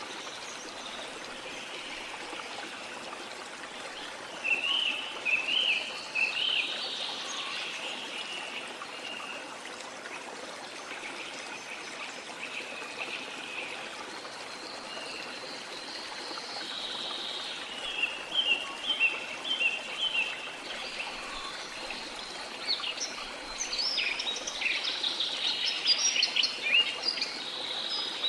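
A steady wash of water under small songbirds chirping in short bursts: a few seconds in, again around eighteen seconds, and a busier run of quick notes near the end.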